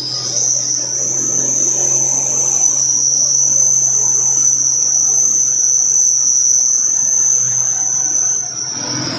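Insects droning in a loud, steady, high-pitched chorus that dips briefly near the end, over a faint steady low hum.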